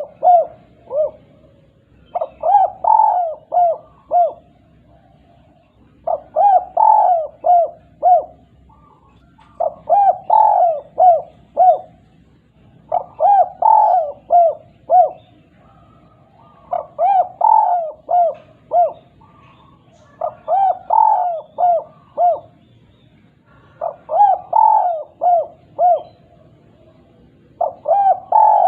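Spotted dove (derkuku/tekukur) singing its 'kuk 2' song. It repeats a cooing phrase about every three and a half seconds, each a run of loud coos ending in two short 'kuk' notes.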